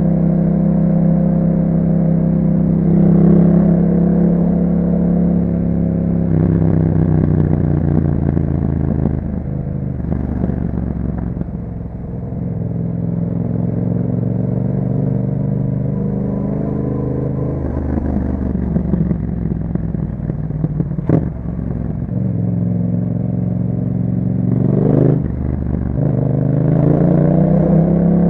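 A 2021 Yamaha MT-07's parallel-twin engine through an Akrapovic exhaust, under way: the engine note rises and falls repeatedly as the bike accelerates through the gears and rolls off. There is one short sharp click about two-thirds of the way in.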